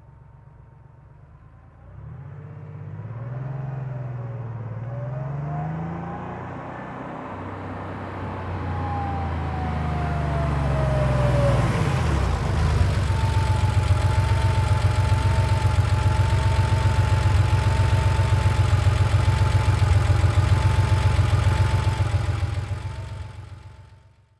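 1990 Porsche 911's air-cooled flat-six heard from outside, faint at first, then louder as the car draws near, its pitch climbing and dropping twice with the gear changes. For the last ten seconds it runs loud and steady close by with a light whine, then dies away.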